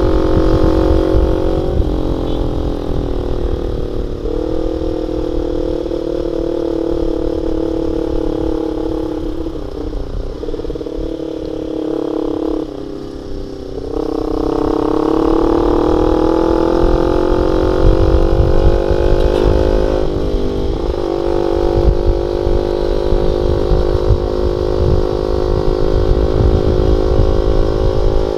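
Honda Sonic 150R's single-cylinder four-stroke engine running through a CLD X Monster aftermarket exhaust with a half baffle. Its pitch holds fairly steady, drops lower and quieter around twelve seconds in, then climbs back up and holds again.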